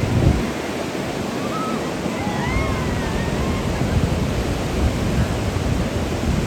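Ocean surf breaking and washing onto the beach in a steady rush, with wind buffeting the microphone in a low rumble.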